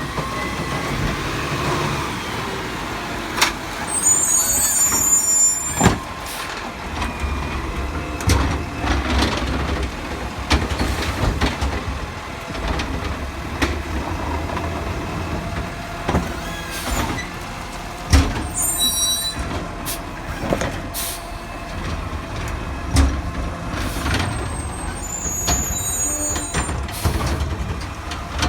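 Garbage truck at work: its diesel engine runs steadily under a series of sharp knocks and bangs. Three short high hisses or squeals come from the air brakes, about four seconds in, again around eighteen seconds, and near the end.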